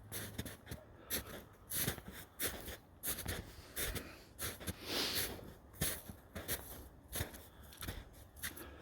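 Footsteps of a person walking over rough ground, irregular crunching and scraping steps about one or two a second.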